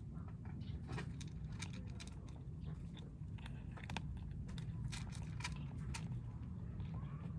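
Stray kittens eating, chewing and crunching their food with many quick, irregular clicks, over a steady low hum.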